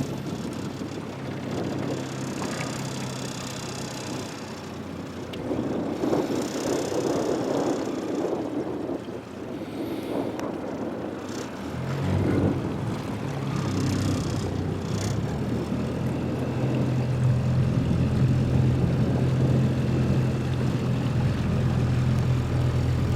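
Small boat's outboard motor running steadily under a wash of water and wind noise; the motor's hum gets louder about halfway through.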